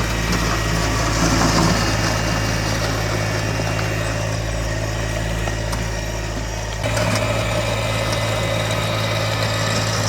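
Small tractor's engine running steadily while it digs, its sound shifting and growing a little louder about seven seconds in.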